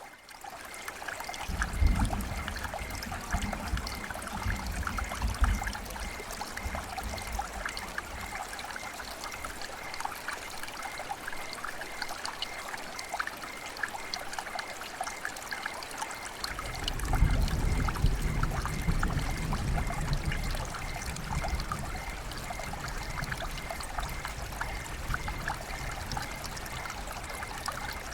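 Flowing river water: a steady rush full of small splashing ticks. A deep low rumble swells in twice, about a second and a half in and again past the middle, each lasting several seconds.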